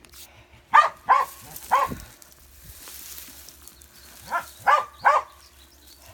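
A dog barking: three short barks, a pause of about two seconds, then three more.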